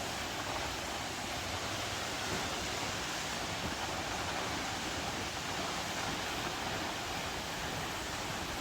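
Steady rush of water from a small waterfall and stream, not in full flow because of dry weather.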